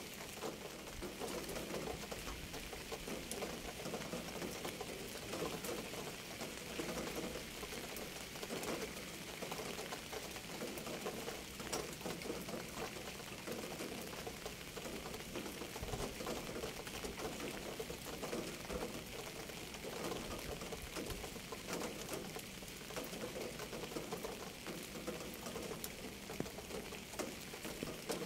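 Steady rain falling and pattering on a surface, a dense run of small drops with no let-up.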